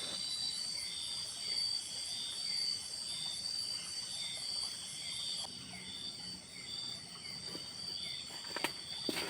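Forest insect chorus: several steady, high-pitched insect tones layered together, with a short falling chirp repeating about twice a second. A few sharp knocks come near the end.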